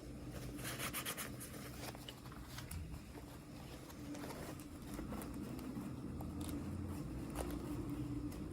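Hands handling and opening small plastic toy packaging: scattered light clicks, taps and rustles, over a steady low hum.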